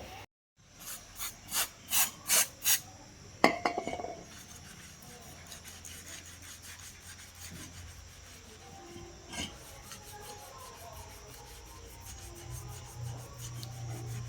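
Six quick rasping strokes of a hand tool, such as a file or scraper, on a workpiece, followed by a sharp knock with a short ring; after that, faint ticking and another knock, and a low hum building near the end.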